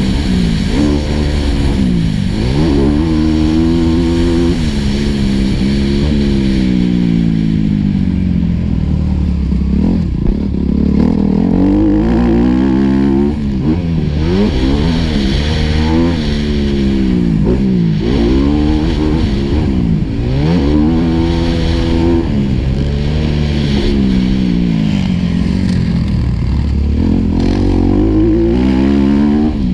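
Four-stroke motocross bike engine heard from on board, revving up and dropping back again and again, every second or two, as the rider works the throttle and shifts gears.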